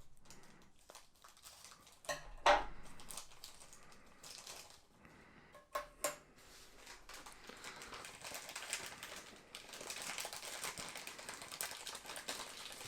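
Small plastic model parts and their plastic packaging being handled: a few sharp clicks and taps, then steady rustling and crinkling of plastic through the second half.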